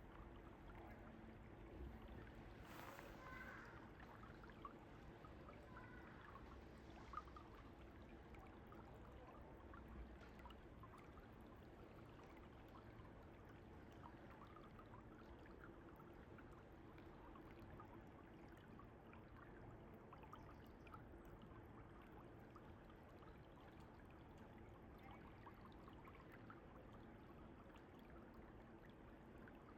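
Faint, steady flow of a mountain stream.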